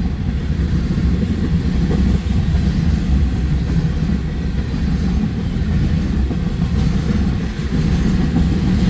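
Union Pacific freight train rolling past, a steady low rumble.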